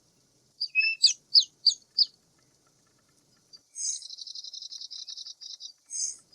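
Birds calling: a quick string of about six sharp, high chirps, then a fast rattling trill lasting about two seconds, set between two short harsh calls, over a faint steady high insect buzz.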